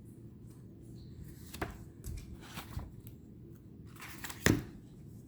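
Tarot cards being handled and turned over: soft sliding and rustling with a few short snaps, the loudest about four and a half seconds in.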